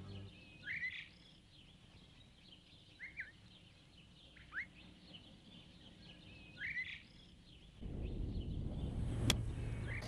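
Sparse, faint bird chirps: four short calls a second or two apart over a quiet background. Near the end a steady rush of background noise comes up, with a single sharp click shortly after.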